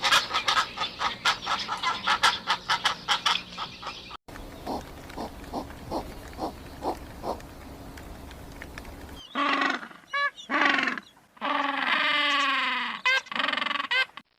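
Animal calls from three clips in quick succession. First comes a fast run of sharp pulses, then softer evenly spaced grunt-like pulses, and from about nine seconds in, loud pitched calls that fall in pitch.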